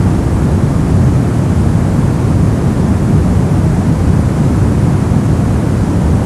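Brown noise: a steady, deep, even hiss, strongest in the bass and falling away toward the highs, with no change.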